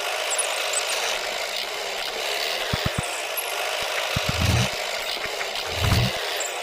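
A small motor running steadily, with a few low knocks and thuds about three, four and a half, and six seconds in.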